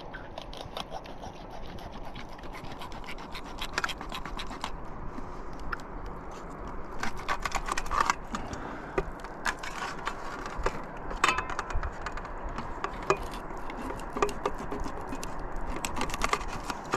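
Scratching and scraping with many short sharp clicks, coming in clusters, over a steady background hiss.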